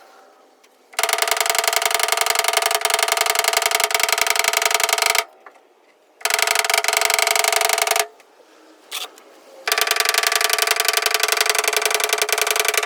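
A handheld power tool buzzing with a fast pulsing rattle and a steady pitched hum, run in three bursts of a few seconds with short pauses between.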